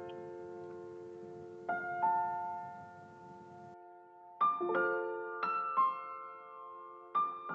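Gentle intro music on piano: slow chords and single notes struck every second or so and left to ring.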